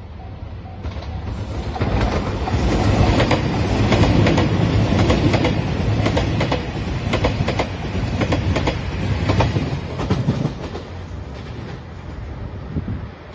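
A JR Shikoku 2700 series diesel limited express train passes at speed, its wheels clicking rapidly over the rail joints. A level-crossing bell rings at the very start before the train's noise covers it. The train sound builds from about two seconds in, stays loud, and fades after about ten seconds as the train moves away.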